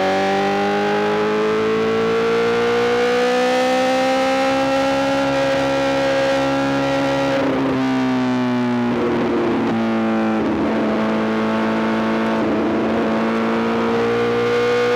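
Honda CBR1000RR-R SP's inline-four engine running through a full Arrow GP exhaust while riding. The engine note climbs slowly and steadily for the first half, drops in pitch with a few short crackly breaks around the middle, then holds a steady note.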